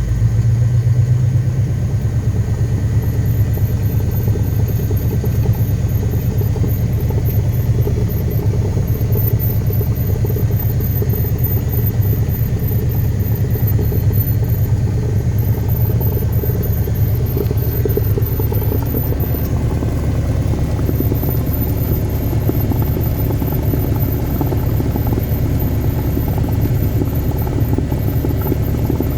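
Cessna 172RG's four-cylinder Lycoming piston engine and propeller running steadily, a loud even low drone with no change in power.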